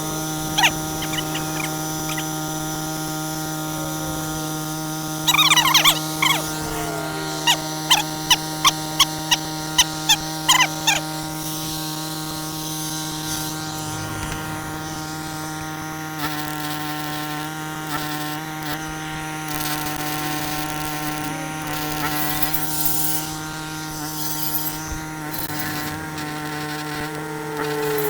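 A steady machine hum with a run of sharp metallic knocks, about two a second, between about five and eleven seconds in.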